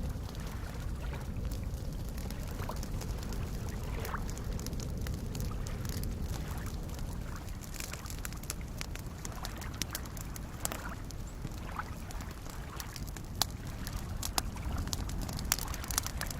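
Campfire crackling with scattered sharp pops, more of them toward the end, over a steady low wash of small lake waves lapping.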